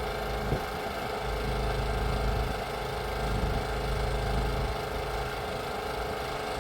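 A steady machine hum with a low rumble and a constant mid-pitched tone, like a motor or engine running.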